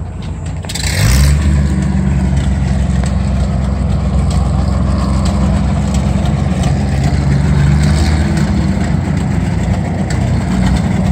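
An engine starts about a second in, with a short burst of hiss, and then runs steadily at a deep, even pitch.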